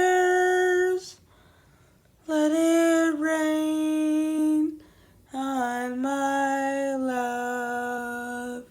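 Unaccompanied voice singing three long held notes, each pitched lower than the last, with short gaps between them.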